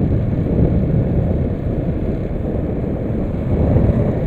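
Loud, steady low rumble of wind and road noise on a moving motorbike, the wind buffeting the rider's microphone.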